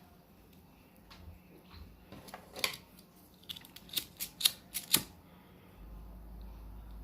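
A quick run of sharp clicks and crackles, bunched between about two and five seconds in, followed by a steady low hum.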